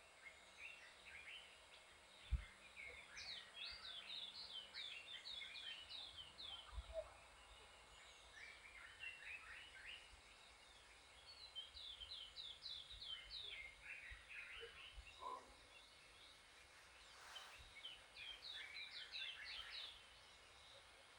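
Faint wild birdsong: three bouts of quick, repeated chirping notes, each sweeping downward, with a single soft low thump a couple of seconds in.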